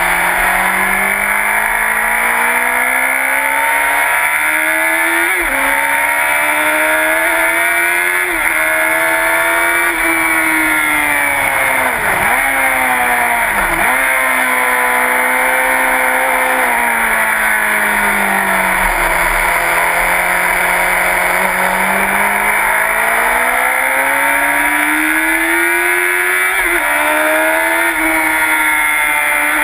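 Sport motorcycle engine at full racing pace, revs climbing and stepping down through two quick upshifts a few seconds in. About halfway the revs fall away, with two sharp downshift dips, then the engine pulls hard again with another upshift near the end. Steady wind rush runs underneath.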